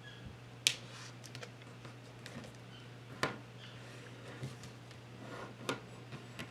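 A sheet of paper being folded and creased by hand: a few short, sharp crackles and taps, the loudest just under a second in, over a steady low hum.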